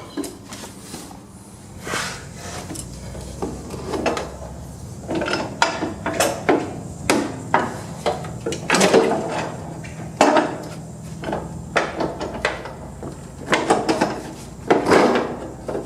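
Irregular metal clanks, knocks and scrapes of lawn tractor deck hardware being handled as the mower deck's pins and lift-arm links are fitted, coming in clusters with short pauses between.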